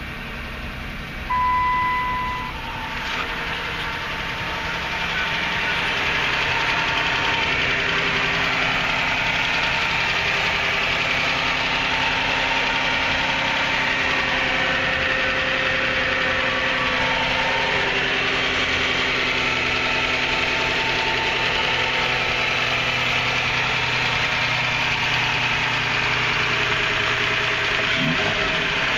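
2005 Chrysler 300's 2.7-litre DOHC V6 idling steadily at about 1,000 rpm, heard first from the cabin and then under the open hood, where it is louder. A short electronic beep sounds about a second in.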